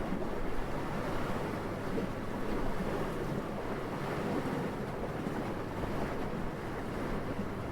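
Steady wind blowing gently, a soft rushing noise that swells and eases slightly, with no gusts or sudden sounds.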